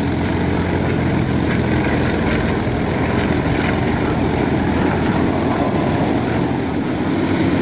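Yak-50 aerobatic aircraft's nine-cylinder radial engines and propellers running steadily as several of the planes fly the display together.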